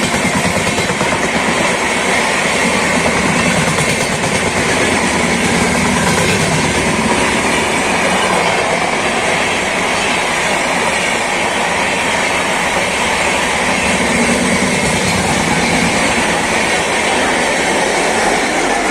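Indian Railways express passenger train running at speed: a loud, steady rush of wheels on the rails with clattering over the track.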